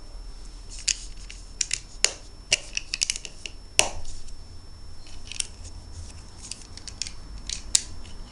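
Plastic Lego bricks being handled and pressed together: a string of irregular sharp clicks and clatters, the loudest about four seconds in.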